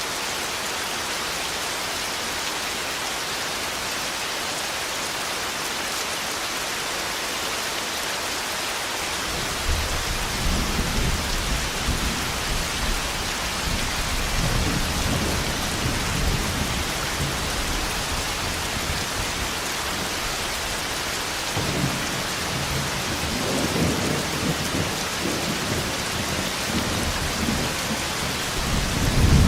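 Thunderstorm: steady heavy rain with low rolling thunder that comes in about a third of the way through, swells again several times and peaks loudest near the end.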